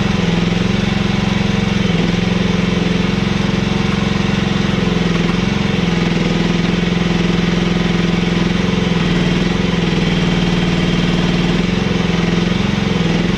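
Mini excavator engine running steadily, its pitch dipping slightly several times.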